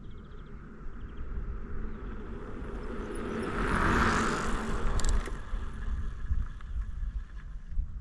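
A vehicle passing on the road: its noise swells to a peak about four seconds in, then drops away, over a steady low rumble of wind on the microphone.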